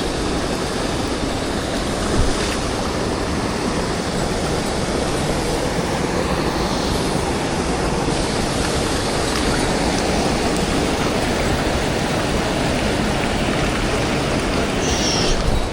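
Mountain stream water rushing steadily over rocks close by, a loud, even rush.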